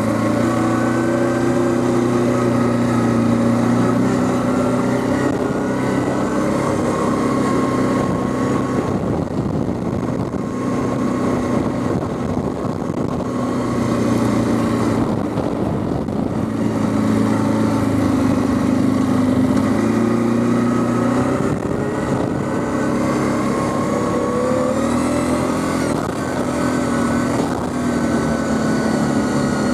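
Quad bike (ATV) engine running while riding, its note rising and falling again and again as the throttle opens and closes.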